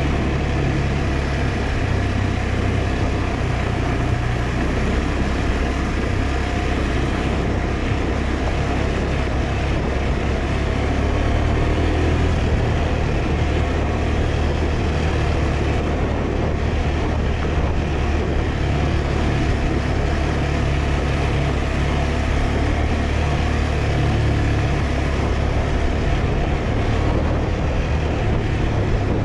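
KTM 390 Adventure's single-cylinder engine running at a steady, even throttle while the bike is ridden along a dirt track, with wind and tyre noise under it.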